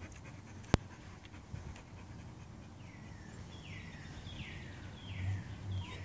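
A wild bird singing a run of about five clear whistled notes, each sliding downward, spaced a little under a second apart, starting about three seconds in. A single sharp click comes about a second in.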